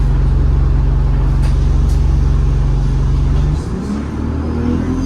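ADL Enviro 200 bus engine and drivetrain heard from on board: a steady low drone that drops away abruptly about three and a half seconds in, as on a gear change, then the engine note starts to climb again near the end.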